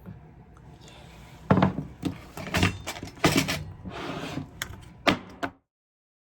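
A handful of knocks and clatters from objects being handled and set down, irregularly spaced, then the sound cuts off abruptly about five and a half seconds in.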